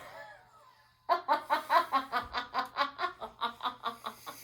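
Laughter after a joke's punchline: a long run of quick, even "ha-ha" bursts, about five a second, starting about a second in.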